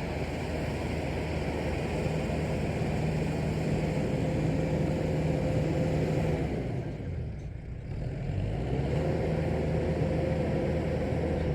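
Tractor engine running steadily under load while driving a rotary tiller, with a steady whine over the engine drone. About seven seconds in, the engine and whine drop away briefly, then build back up to the same steady note.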